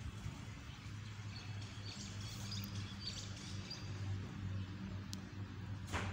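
Faint bird chirps from about two to three and a half seconds in, over a steady low hum, with a brief rustle near the end.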